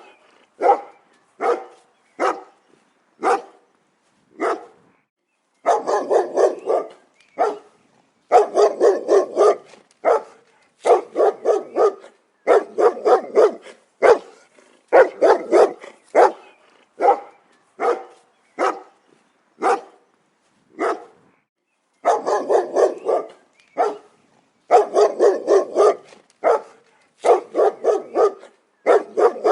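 A dog barking repeatedly: short, sharp barks, some single and some in quick runs of several, with brief pauses between the runs.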